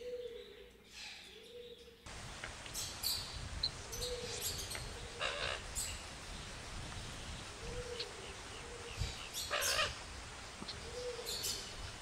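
Birds calling: a soft low hoot repeated every few seconds, with short high chirps and twitters over a steady hiss that rises about two seconds in.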